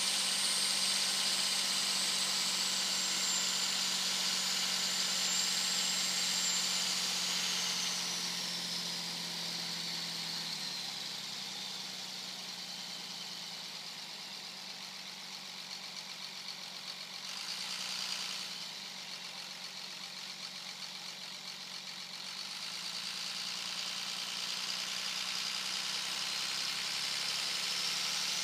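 2001 Dodge Ram 2500's 5.9-litre Cummins inline-six turbo diesel running at highway speed, with a loud high-pitched turbo whistle over the engine drone. About a third of the way in, the whistle and engine fall in pitch and get quieter as the truck eases off, and near the end the whistle climbs back up as it pulls again. A brief rush of noise comes about two-thirds of the way through.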